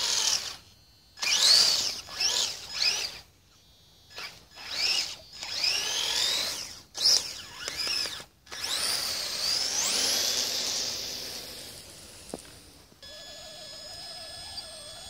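Electric drive motors of a twin-chassis Kyosho Blizzard RC tracked vehicle whining in short throttle bursts, the pitch rising and falling as it speeds up and slows, with brief pauses between bursts. About two seconds before the end this gives way to a steady hum with several fixed high tones.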